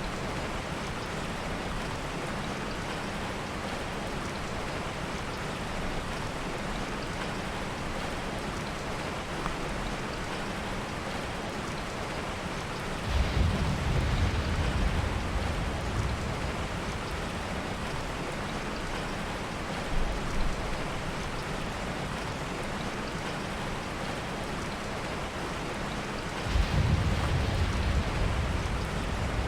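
Steady heavy rain with low rolls of thunder: one starts about halfway through and lasts a few seconds, and another comes near the end.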